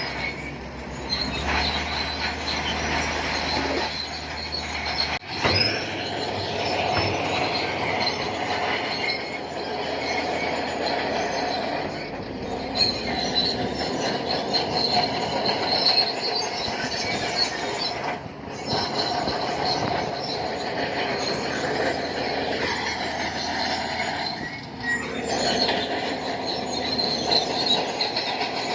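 Shantui crawler bulldozer working, its steel tracks squealing and clanking over the steady run of the diesel engine.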